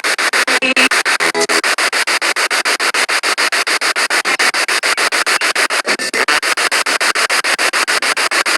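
Spirit box radio sweeping through stations: loud static chopped evenly many times a second, with brief snatches of broadcast voice or tone near the start and again about six seconds in.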